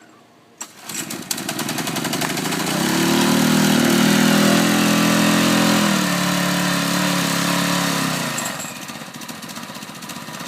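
Small engine starting up about a second in, running at high speed for several seconds and then settling to a lower, steadier speed near the end. It is running a bit rough, which a student puts down to a head gasket that needs replacing.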